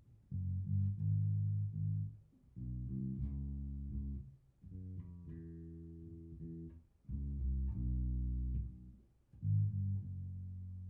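Electric bass, tuned down a half step, played through a Fender Rumble 100 V3 bass combo amp: four short phrases of low plucked notes, each lasting one to two seconds, with brief gaps between them.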